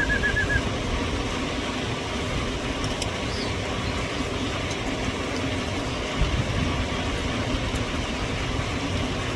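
Steady, fluctuating rumbling noise of wind on the microphone. A trilled whistle, the kind used to call pigeons in to the loft, ends about half a second in.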